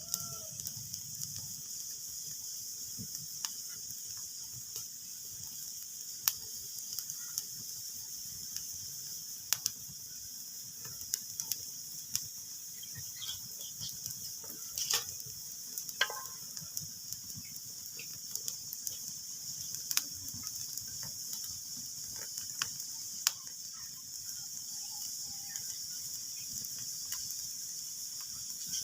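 Wood fire crackling in a fireplace: a steady hiss and low rumble with irregular sharp pops.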